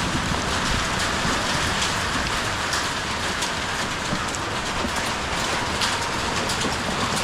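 Hail and rain coming down hard: a dense, steady patter with many sharp individual hits of marble-sized hailstones.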